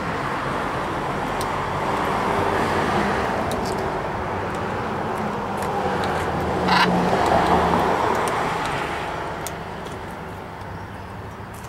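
Road traffic going by: the rush of passing vehicles swells twice and then fades away, over a low engine hum, with one sharp click partway through.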